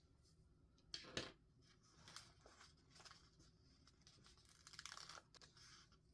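Faint paper and sticker handling: two sharp taps about a second in, then soft crinkling and rustling, with a longer scratchy rustle near five seconds.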